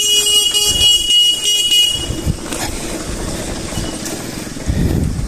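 A vehicle horn sounds steadily for about two seconds, then a motor vehicle's engine runs with a low rumble.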